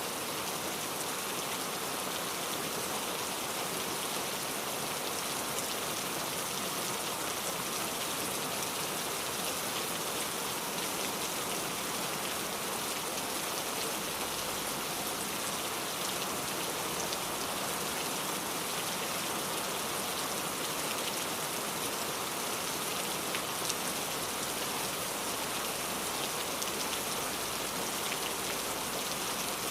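Steady rain falling, with many small droplet ticks over an even hiss.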